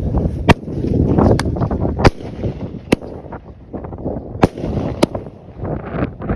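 A 33-shot consumer firework cake (Never Say Die) firing. It gives about six sharp bangs, spaced irregularly a second or so apart, over a dense crackling rumble that is heaviest in the first two seconds and thins toward the end.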